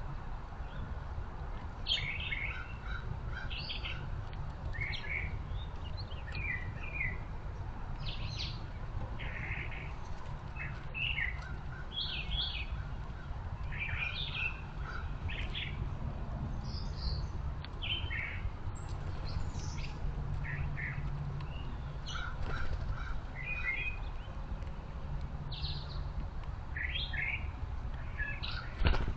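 Songbirds chirping, many short high calls in quick succession, over a low steady rumble. A single sharp knock near the end.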